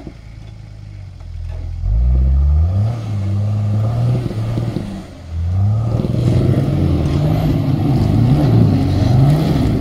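Off-road 4x4's engine revving hard: it climbs sharply about two seconds in, eases off briefly around five seconds, then revs up and down again and again.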